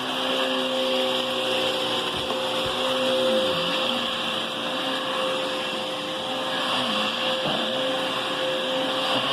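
Hoover Whisper cyclonic vacuum cleaner running, a steady motor whine with airflow hiss. A lower tone under it dips and recovers a few times.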